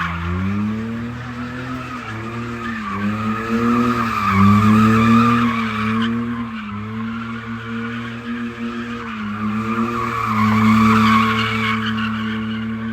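Car engine held at high revs, its pitch repeatedly rising and dipping and then holding steadier near the end, while the tyres squeal against the pavement.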